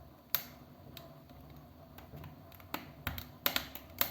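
Wood fire crackling in a fireplace: irregular sharp pops and snaps, one about a third of a second in and a quicker cluster near the end, over a low steady background.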